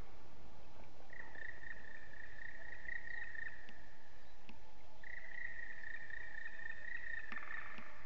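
Bird calls: two long, steady high-pitched notes of a few seconds each, the first starting about a second in and the second about five seconds in, then a short buzzy rattling call near the end.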